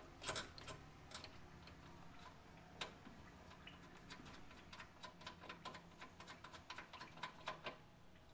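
Faint irregular light clicks and taps of a hand tool working at an oil line quick-connect fitting, as a line-disconnect tool is pushed in to release the line. There is a sharper click at the start, a single one about three seconds in, and then a quicker run of small clicks for the last few seconds.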